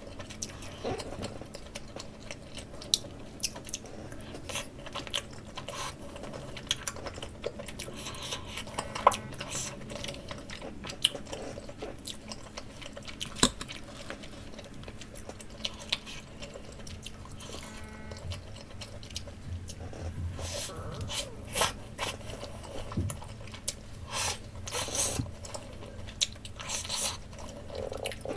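Close-miked chewing of takoyaki: soft wet mouth sounds with crisp bites and scattered sharp clicks throughout.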